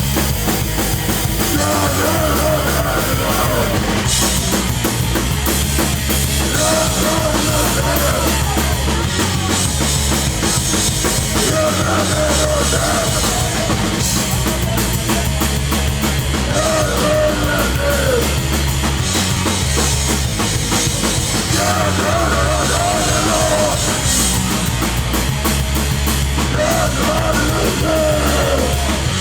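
A live hardcore punk band playing loud and fast, with a pounding drum kit and distorted guitars. A higher line rises above the band about every five seconds.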